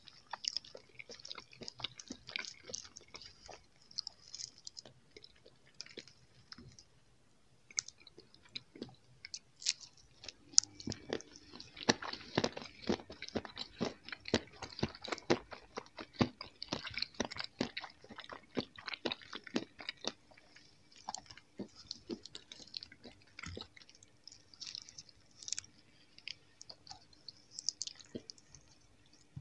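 Close-miked mouth sounds of biting and chewing soft jelly candy: a steady run of small sticky clicks that grows busiest a little after a third of the way in.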